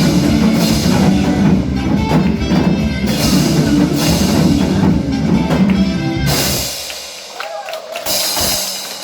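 Janggu drums played over a loud backing song, with steady drum strokes; the music stops about seven seconds in and only faint sounds follow.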